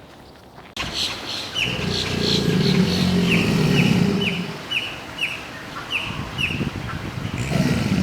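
A bird calling a short, falling chirp over and over, about two a second, starting suddenly about a second in, over a steady low rumble.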